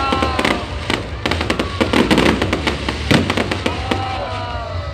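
Fireworks display: a rapid, irregular barrage of bangs and crackling from bursting aerial shells.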